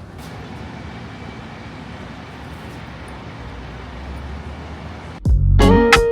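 Steady low background rumble of vehicle or traffic noise. About five seconds in, loud electric guitar music starts with plucked notes.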